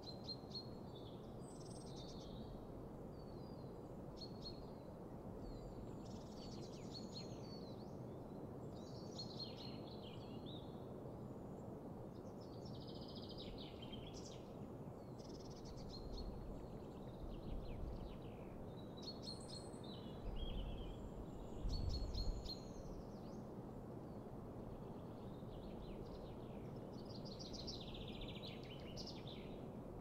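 Songbirds singing in short, repeated chirping phrases over a steady low background hiss, with a couple of brief low rumbles about two-thirds of the way through.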